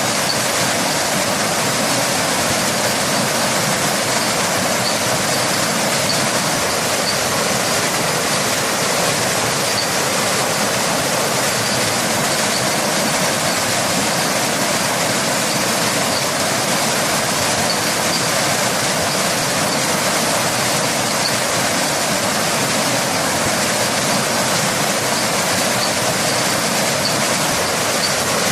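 A waterfall rushing steadily: a loud, even hiss of falling water with no break or change.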